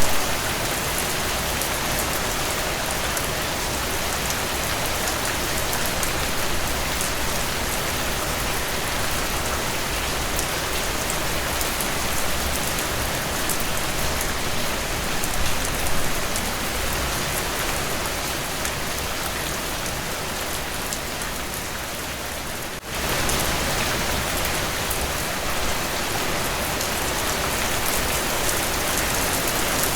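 Heavy rain falling steadily on a surface, an even hiss with fine patter of drops. About three quarters of the way through it dips sharply for a moment and comes straight back.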